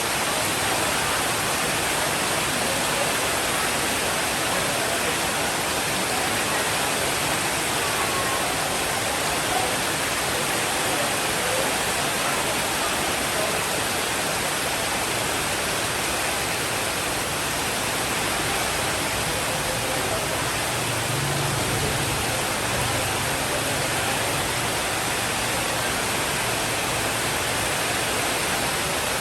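Steady, dense rainfall hiss. A faint low rumble comes in about two-thirds of the way through.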